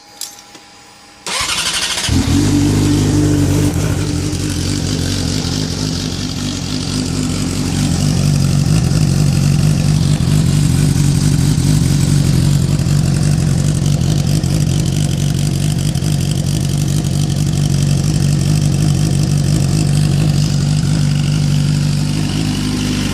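2014 Yamaha R6's 600cc inline-four starts from cold about a second in, catching at once and settling into a steady idle. It runs through an M4 Street Slayer carbon-fibre shorty slip-on with MJS stainless headers, with the baffle still in.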